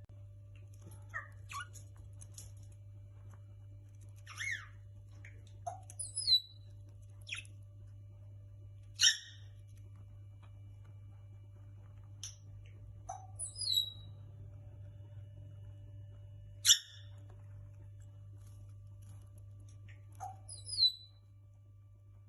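Pet parrots giving short, sharp chirps and squawks every few seconds, some sweeping down in pitch, over a steady low hum.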